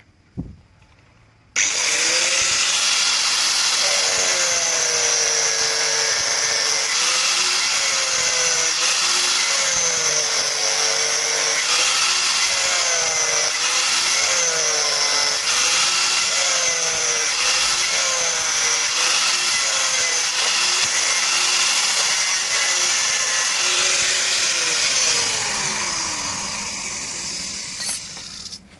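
An electric power tool working wood, with its motor pitch dipping and recovering again and again under load. It starts about a second and a half in and winds down near the end.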